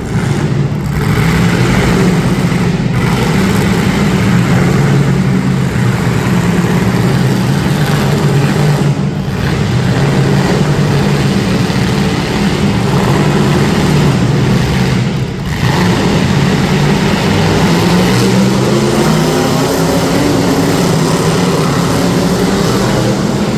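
Several demolition derby cars' engines running and revving together, loud and continuous, dipping briefly twice.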